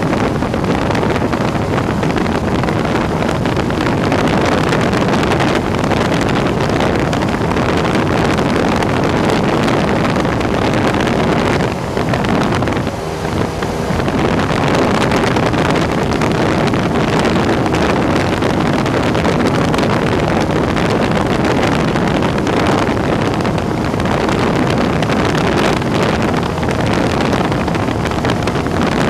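Cessna 172's piston engine and propeller droning steadily, with rushing wind noise over it; the level dips briefly about thirteen seconds in.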